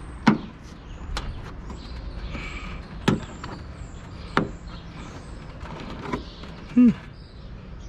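Sharp plastic clicks and knocks, about five spread out, as trim in a car's trunk lid is pried and tugged at by hand to pop it loose. A brief grunt near the end.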